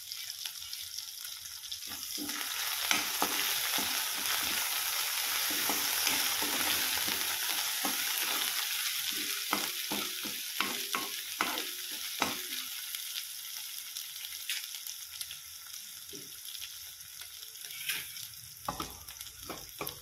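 Crushed green chilli and garlic sizzling in hot oil in a nonstick kadhai, the sizzle growing louder about two seconds in and easing off towards the end. A spatula stirring scrapes and taps against the pan in a quick run in the middle and again near the end.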